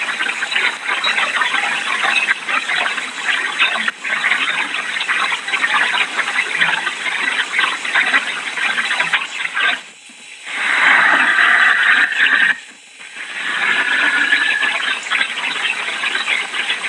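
Hurricane wind and rain rushing loudly, with two brief lulls after the middle. A high, steady whistle rises out of the rush twice in the second half.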